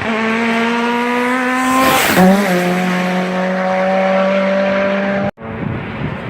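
Race car engine running hard at high revs, its note climbing slightly before dropping sharply in pitch with a brief loud, noisy burst about two seconds in. It holds a steady lower note, then cuts off abruptly a little after five seconds and another car's noise begins.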